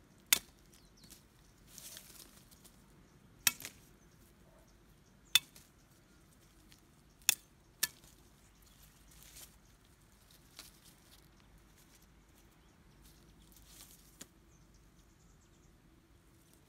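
Sharp knocks of a hand tool striking, five loud ones spaced roughly two seconds apart in the first eight seconds, then only a few faint ticks, with soft rustling between.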